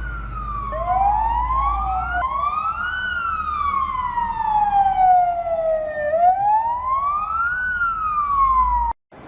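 Emergency vehicle sirens wailing in slow rising and falling sweeps of about three seconds each, two overlapping briefly near the start, over a low rumble. The sound cuts off abruptly near the end.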